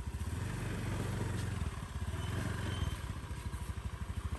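Small motorcycle engine running steadily, with a rapid even pulse.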